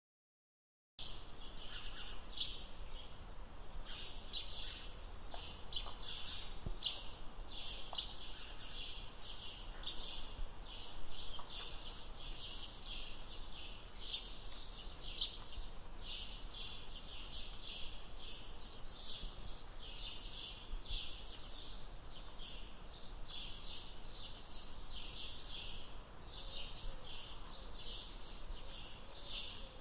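Outdoor ambience of birds chirping: short high chirps repeating in quick, irregular succession over a faint low rumble, starting about a second in.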